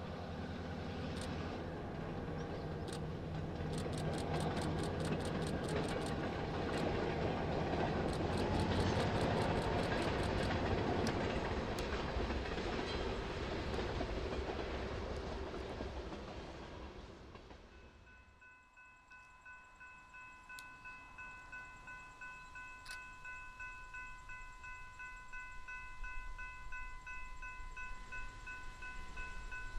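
Freight train rolling past, its diesel locomotive's engine heard first, then the cars' wheels clicking rapidly over rail joints, fading out. After a cut, a railroad grade-crossing bell rings steadily.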